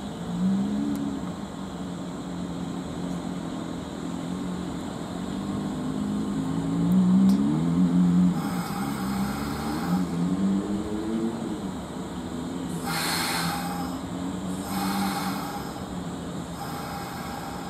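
Kintetsu Ise-Shima Liner electric limited-express train passing: a low humming that glides up and down in pitch, loudest about seven to eight seconds in, followed by several separate bursts of rushing wheel-and-rail noise.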